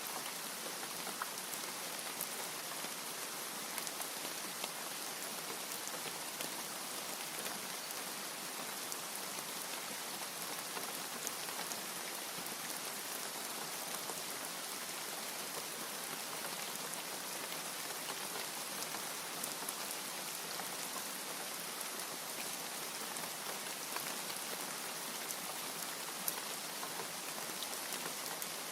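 Steady, heavy rainfall: an even hiss of rain with many small drop ticks scattered through it.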